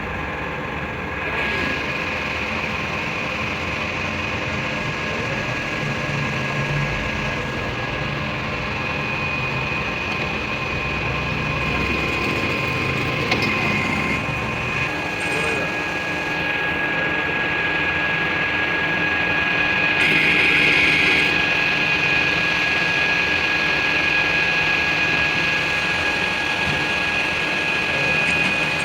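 Workshop machinery running steadily, with a constant high whine over a rumble; the whine shifts in pitch a few times and swells briefly about two-thirds of the way through.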